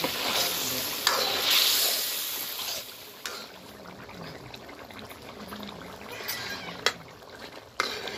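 Eel and potato curry sizzling in a wok as a metal ladle stirs it, loud for the first three seconds and then settling to a quieter simmer. A few sharp clicks of the ladle striking the pan, near the start and twice near the end.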